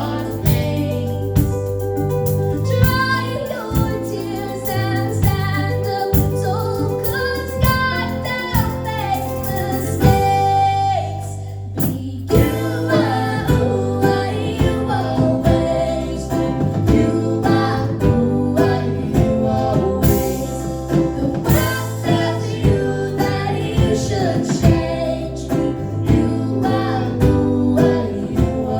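Live acoustic band music: a female singer over guitar and other plucked strings, with a short break in the singing about twelve seconds in.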